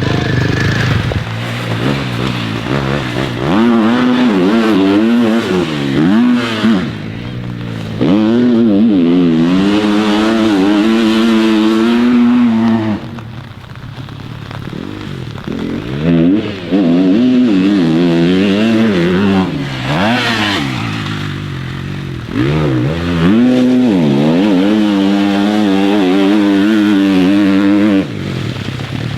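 Dirt bike engine being ridden hard, its pitch climbing as the throttle opens and falling away off the throttle, over and over through gear changes. It eases off for a few seconds around the middle, then picks up again.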